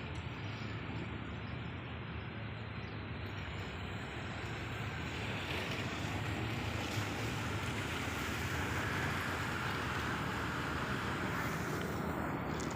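A passing train's steady rushing rumble, swelling a little through the middle. It cuts off abruptly at the end.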